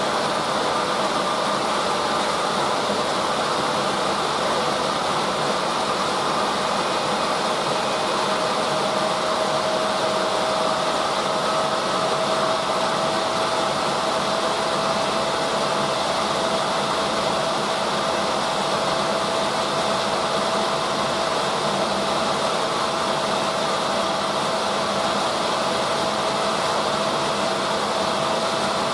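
Drum-type washing machine running with its drum turning: a steady whirring rush with a faint whine that slowly rises a little in pitch.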